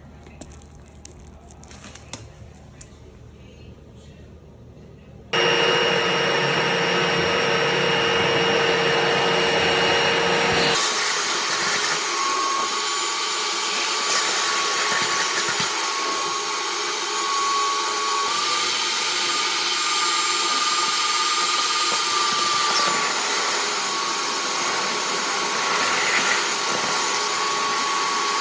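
Dryer-vent cleaning equipment's electric motor switching on suddenly about five seconds in and then running loud and steady with a constant whine; about eleven seconds in the sound shifts to a higher, thinner whine that keeps on. Before it starts there are a few faint clicks.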